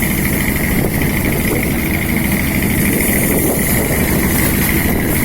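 Boat's engine running steadily, a constant loud drone.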